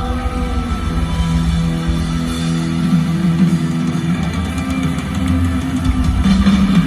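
Live rock band playing an instrumental passage, with electric guitar and bass carrying sustained notes over the drums.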